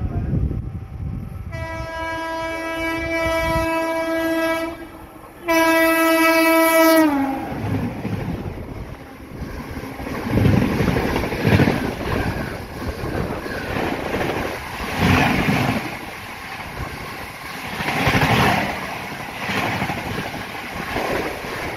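Indian Railways electric locomotive horn sounding two long blasts, the second dropping in pitch as the locomotive passes close by. Then the passenger coaches rush past, wheels clattering over the rail joints in repeated groups of knocks.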